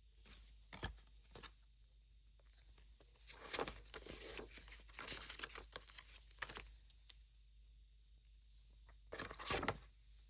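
Packaging being torn open and crinkled by hand during an unboxing: a few short crackles, a longer stretch of rustling and tearing from about three to seven seconds in, and another short burst near the end.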